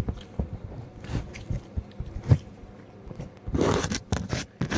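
Close-up chewing and mouth sounds from eating thick-crust pepperoni pizza: irregular small clicks and smacks, a single low thump a little past two seconds in, and a louder rustling, crunchy stretch about three and a half seconds in.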